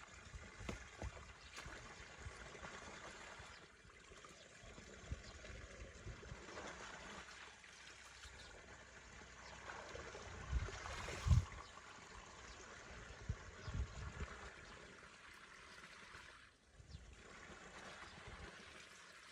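Water running and trickling steadily, with a few low thumps, the loudest about eleven seconds in and more a couple of seconds later.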